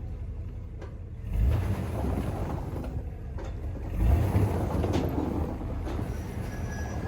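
A car engine running with a low rumble that swells and eases every few seconds, with a few sharp clicks.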